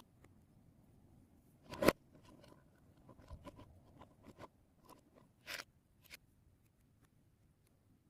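Plastic Lego Technic pieces clicking and rattling as they are handled and fitted together, with one sharp, loud click about two seconds in and a run of lighter clicks after it.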